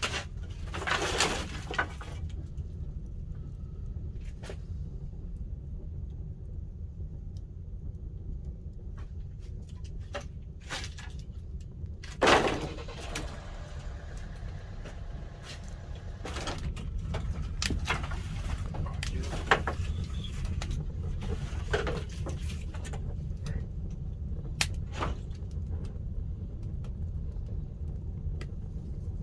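Pine-wood fire burning in a traditional wood-fired kiln: a steady low rumble with scattered crackles and pops, and two louder rushing surges, one about a second in and one about twelve seconds in.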